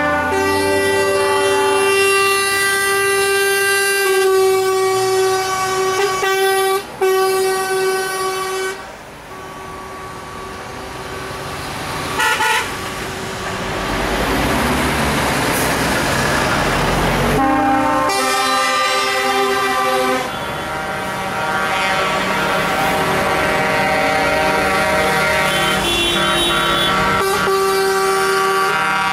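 Truck air horns blowing long, sustained blasts, several notes sounding together like a train horn. They stop about nine seconds in, giving way to a rising rush of passing vehicle noise, then sound again from about eighteen seconds to the end.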